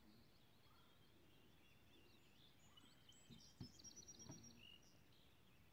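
Near silence of outdoor ambience with faint birds chirping and trilling, busier in the second half. A couple of soft low knocks come a little past the middle.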